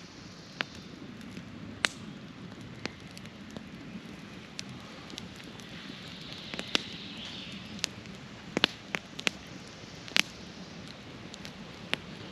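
Campfire of burning wood crackling, with irregular sharp pops over a steady low hiss.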